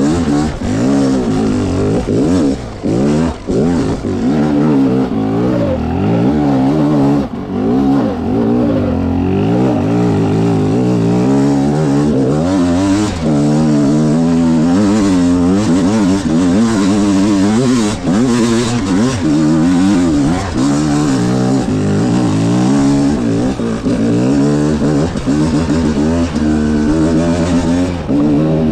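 300cc two-stroke dirt bike engine revving up and down constantly under the rider's throttle, its pitch rising and falling every second or so. The revs drop away briefly a couple of times, near three and seven seconds in.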